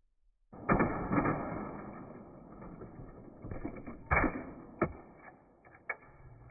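A kettlebell smashing onto a robot vacuum's plastic body, heard slowed down as a slow-motion replay. It starts suddenly with a crash about half a second in, followed by a series of knocks and rattles, with another loud crash about four seconds in.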